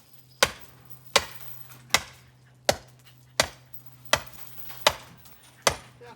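Oak firewood being chopped: eight sharp, evenly spaced strikes, about three every two seconds.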